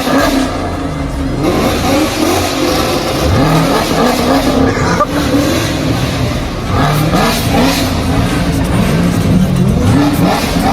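V8 muscle-car engines revving again and again, pitch climbing and dropping with each blip: a Camaro ZL1 and a straight-piped 5.0 Mustang GT.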